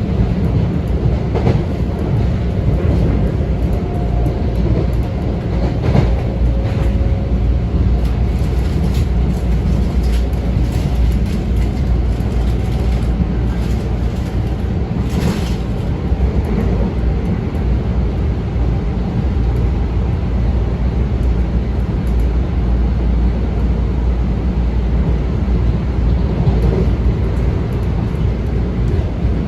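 Metro-North M7 electric train running at speed, heard from inside the car: a steady low rumble of wheels on rail, with a few sharp clicks and knocks and a faint whine now and then.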